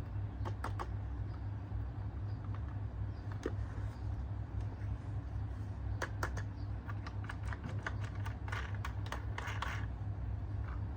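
Irregular small clicks and light knocks from toys being handled during an unboxing, bunched together in the second half, over a steady low hum.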